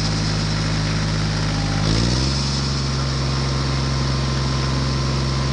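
Tractor engine running steadily, rising in pitch about two seconds in as it revs up, then holding the higher speed.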